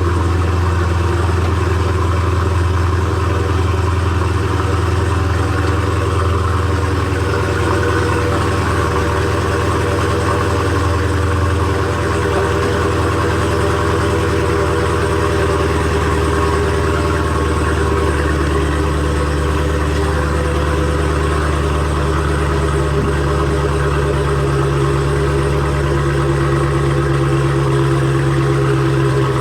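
Car engine running steadily with a constant low drone; its pitch steps up slightly about two-thirds of the way through.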